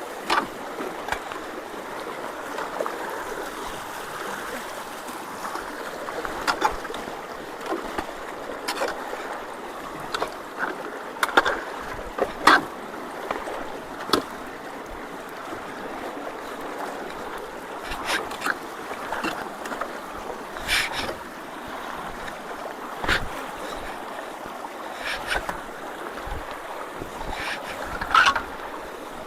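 Water rushing steadily through a culvert that is being cleared of debris, with scattered sharp knocks and splashes, the loudest about 12 seconds in and near the end.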